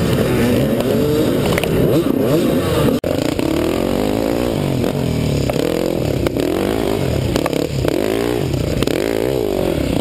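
Dirt bike engine revving up and down as it is ridden, its pitch repeatedly rising and falling, with a momentary dropout in the sound about three seconds in.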